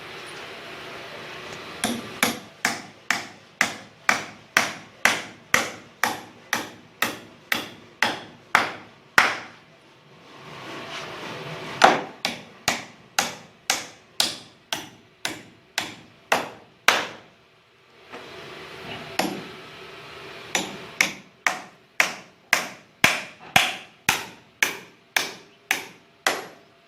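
Carpenter's hammer striking repeatedly at about two to three blows a second, in three long runs with short pauses between them. A steady hiss fills the pauses.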